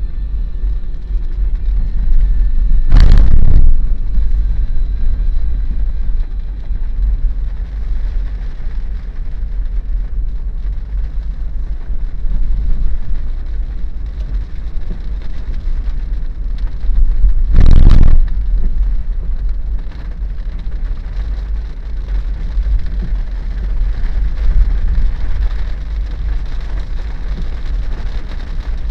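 Daihatsu Terios driving on a wet road in rain: a steady low rumble of road and engine noise with a light rain hiss. Two loud swooshes, each under a second, come about three seconds in and again past the middle.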